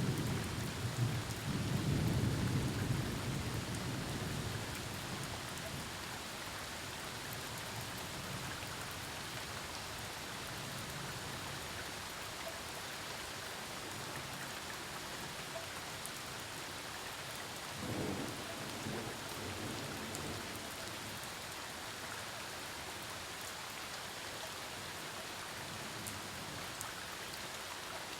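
Steady thunderstorm rain hissing down. A clap of thunder breaks right at the start and rumbles on for about five seconds, and a shorter, fainter rumble of thunder comes about eighteen seconds in.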